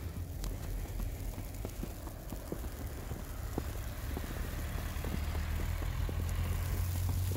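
Footsteps in snow, faint and roughly two a second, over a low steady rumble that grows slightly toward the end.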